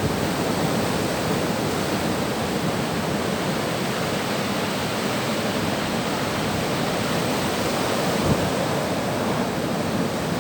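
Sea surf washing on the shore as a steady, even rush of noise.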